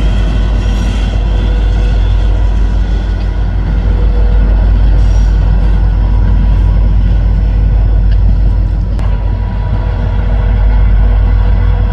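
Diesel locomotive running as a train reverses, a loud steady low rumble with a constant hum above it.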